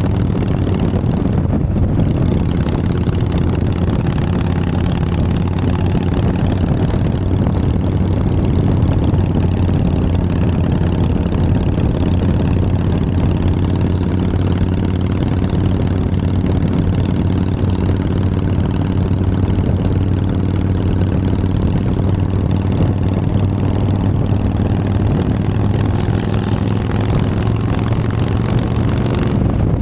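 Harley-Davidson Sportster's air-cooled V-twin engine running steadily, its pitch edging up slightly near the end.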